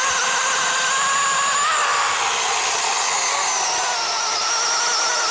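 DeWalt 20V cordless chainsaw with a 12-inch bar running steadily as it cuts through a log. Its high electric-motor whine wavers and dips in pitch about two seconds in.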